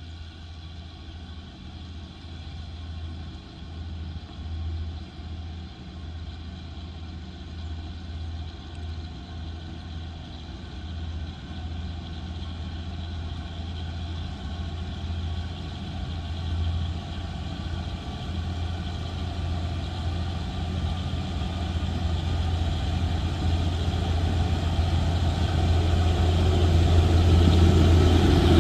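Diesel engine of a narrow-gauge toy train running with a steady low hum, growing steadily louder throughout.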